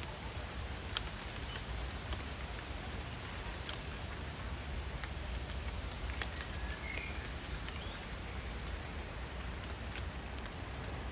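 Steady rain falling, with scattered sharp drop ticks and a low rumble underneath. A couple of short high chirps come about six to seven seconds in.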